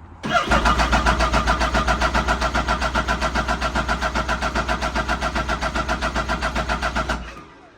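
2015 Arctic Cat ZR7000 snowmobile's electric starter cranking its Yamaha-built three-cylinder four-stroke engine on a cold start, with an even, fast chugging pulse over a steady starter whine. It cranks for about seven seconds without the engine catching, then cuts off suddenly.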